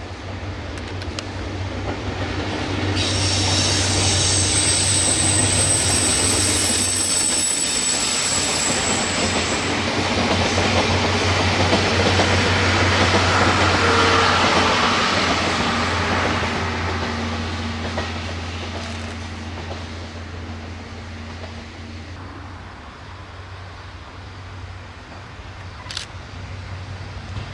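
Locomotive-hauled passenger train passing on a curve: wheels clattering over the rails, with a high wheel squeal for several seconds from about 3 seconds in. The noise swells to its loudest in the middle and fades as the train moves away.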